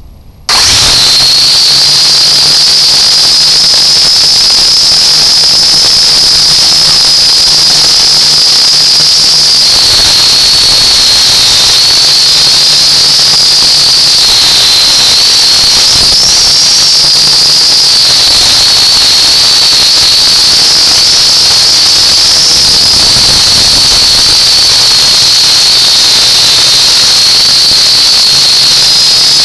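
Discovery R/C quadcopter's motors and propellers running in flight, a loud high-pitched whine over a low hum. The pitch wavers slightly as the throttle changes, starting suddenly about half a second in.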